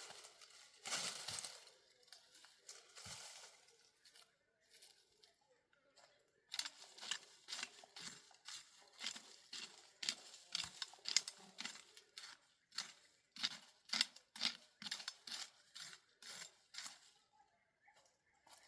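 Dry wheat stalks rustling and crunching, first a brief rustle and then, from about six seconds in, a steady run of crisp strokes at about two a second.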